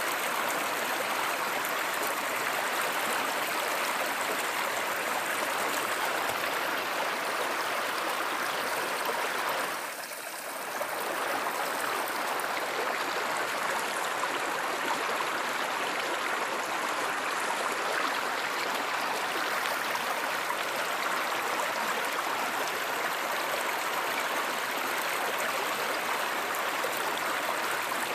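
Steady rushing of a flowing stream or river, an even wash of water noise that dips briefly about ten seconds in.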